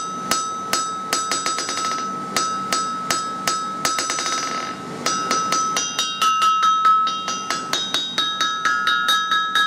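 Hammer striking an anvil about three times a second. The anvil rings loudly, with a sustained high tone between blows, because it is not yet fastened down to its stump.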